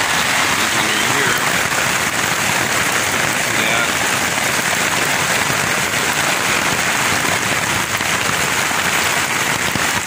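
Heavy, steady rain beating on a tent's rain fly and the wet ground around it, heard from inside the tent.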